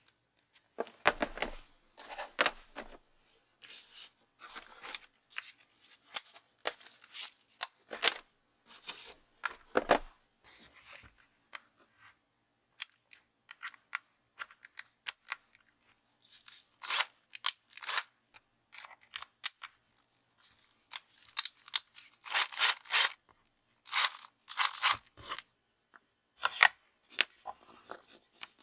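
Irregular short scrapes and clicks of small hand tools working at a model part, in clusters with a quieter spell about halfway through.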